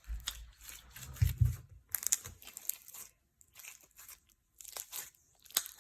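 Clear slime being squeezed and stretched by hand, giving irregular crackling clicks and pops, with a couple of louder low thuds about a second in.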